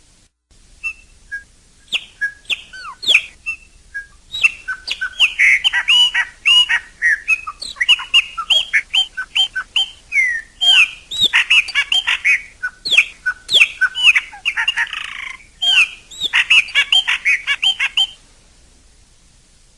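Chopi blackbird singing: a long run of rapid, varied whistled notes and chirps. It starts about a second in, grows dense, and stops abruptly near the end.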